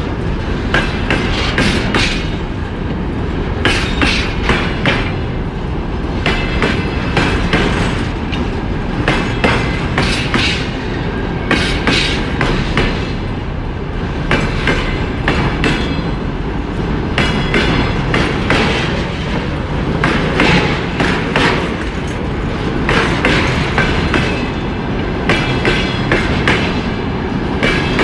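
Freight train wagons rolling past at speed: a steady rumble with the wheels clattering over rail joints in repeated bursts.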